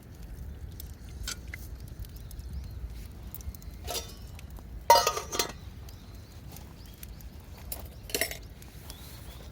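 Cookware and utensils clinking and knocking at a campsite: three short clatters, the loudest about five seconds in, over a steady low rumble.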